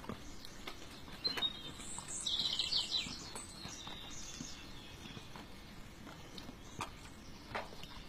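A bird chirps a quick run of falling notes about two seconds in, lasting about a second, over faint scattered rustles and small clicks.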